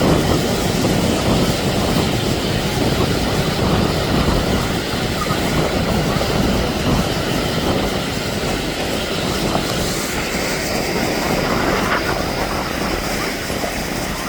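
Twin turboprop engines of a Canadair CL-415 water bomber flying over the bay, a steady rumbling drone.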